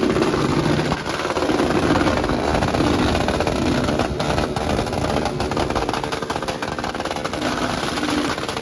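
Motorcycle engines running and revving, a continuous mix of engine noise that rises and falls without a break.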